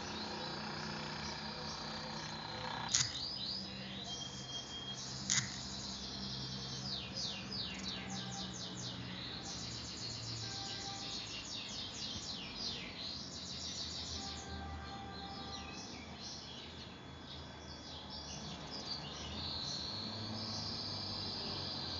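Birds chirping and trilling in quick, repeated high-pitched notes, with two sharp clicks about three and five seconds in.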